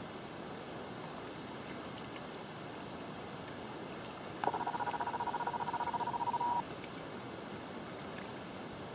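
Steady background hiss, with an animal's rapid, even trill on one pitch starting about halfway through and lasting about two seconds.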